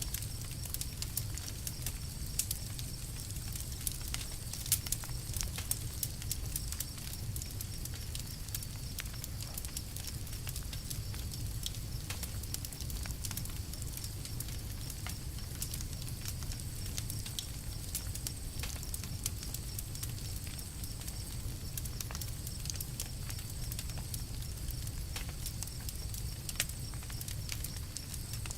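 Campfire crackling: irregular sharp pops and ticks of burning wood, several a second, over a steady low rumble.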